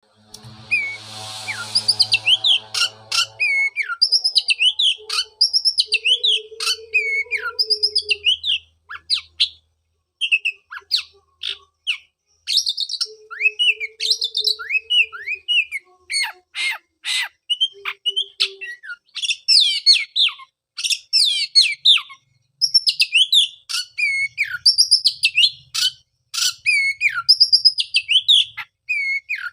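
Oriental magpie-robin (kacer) singing: loud, varied whistled phrases full of quick sweeping notes and sharp chirps, with short pauses between runs. A low hum sits under the first few seconds.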